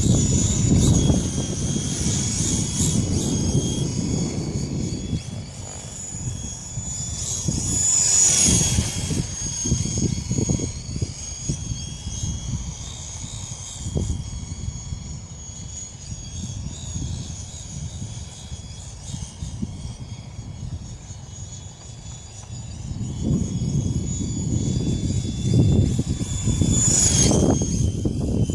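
Small electric RC helicopter (FX070C) flying, its motor and rotor giving a steady high whine that swells and bends in pitch twice as it passes close. Heavy wind buffeting rumbles on the microphone underneath.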